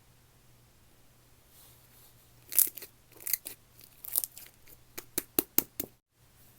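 Slime being pressed and stretched by hand, giving a run of crisp popping clicks from trapped air that starts about halfway in and comes faster near the end.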